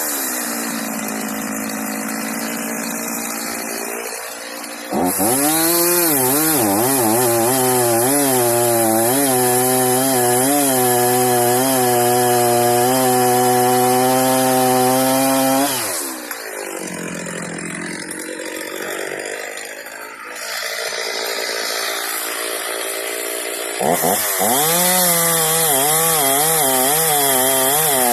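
Stihl MS 310 two-stroke chainsaw with a 20-inch bar running at a lower speed, then about five seconds in opening up to full throttle for around eleven seconds with the pitch wavering up and down. It drops back to a low speed, then opens up to full throttle again near the end.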